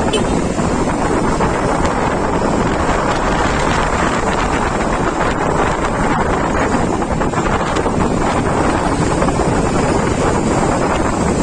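Loud wind buffeting the microphone, a steady rushing noise that does not let up, as heard from a moving vehicle.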